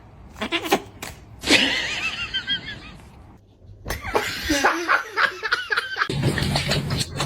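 A person laughing in quick repeated bursts, with a gap a little after the middle before more broken sound starts up.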